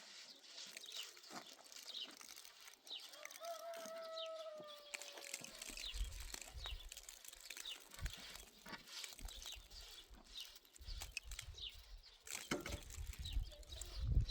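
Small birds chirping repeatedly, with one longer, falling call about four seconds in. A low rumble comes and goes through the second half.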